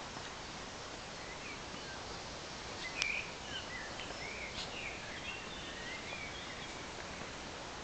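Outdoor woodland ambience: a series of short chirping bird calls over a steady hiss, with a single sharp click about three seconds in.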